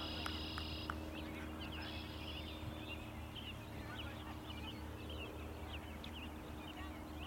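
Birds chirping in short, rising calls, with two brief high whistled tones in the first couple of seconds, over a steady low hum.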